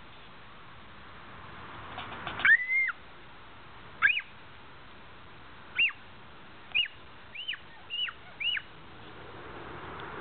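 A bird calling: about eight short, high calls that arch up and then fall in pitch, at irregular intervals. The longest and loudest comes about two and a half seconds in, and a quicker run of calls follows near the end.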